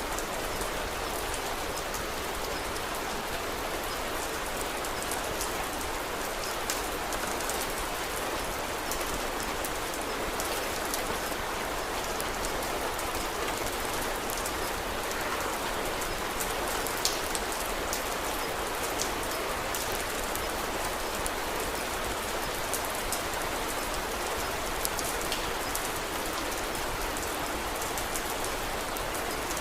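Steady rain falling, an even hiss, with scattered sharp crackles and pops from a wood fire in a fireplace, one louder pop about halfway through.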